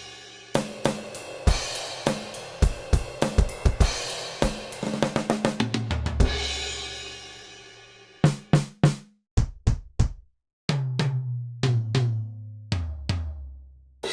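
Sampled acoustic drum kit from Roland's DrumStudio Acoustic One software: a short beat with kick, snare, hi-hat and cymbals that ends on a crash left to ring out. About two seconds later come single hits, bright strikes first, then toms played one after another from high to low.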